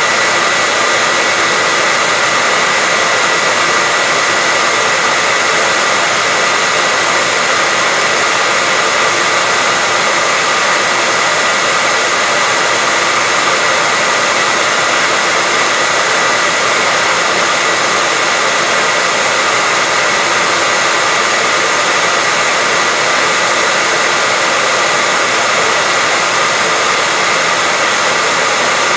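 Hair dryer running at a steady speed: an even rush of blown air with a steady high whine from its motor.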